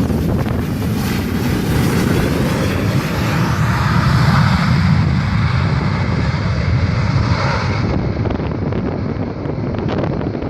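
Gusty wind buffeting the microphone over the distant jet roar of a Boeing 737-800's CFM56 engines; the higher rushing part of the roar fades about eight seconds in.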